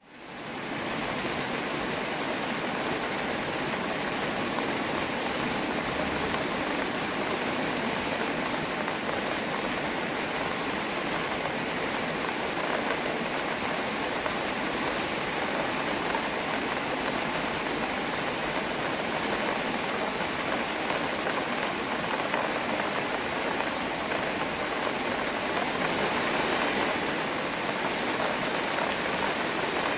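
Steady rain falling outdoors, an even hiss that fades in over the first second and then holds level.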